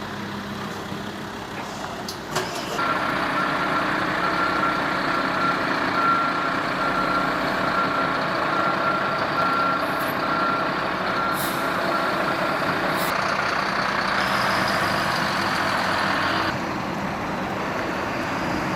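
Fire engine running and reversing, its reversing beeper sounding about once a second over the engine noise. Short air hisses come near the end of the beeping, and the engine noise then drops.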